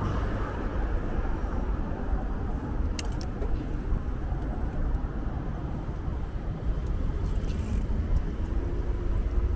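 City road traffic: a steady rumble of cars passing on the street, heard from a moving bicycle, with a single sharp click about three seconds in.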